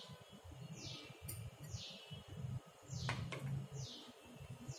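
A bird repeating a short, high, downward-sweeping chirp about once a second, with a couple of light clicks about three seconds in.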